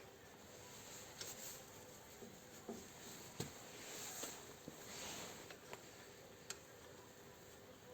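Faint scattered clicks and light taps, a handful over several seconds, over a steady low hiss.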